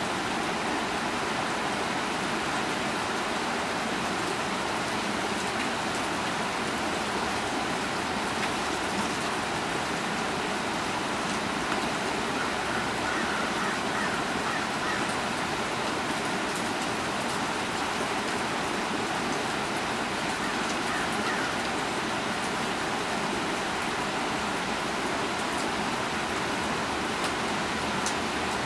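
Steady rain falling on trees and foliage: a constant even hiss with scattered drip ticks.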